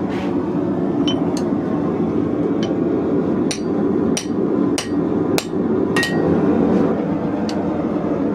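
Hand hammer striking hot leaf-spring steel on an anvil, about ten blows at an uneven pace, with a quicker run of evenly spaced strikes from about three and a half seconds in. The last strong blow leaves a brief ring. A steady low roar continues underneath.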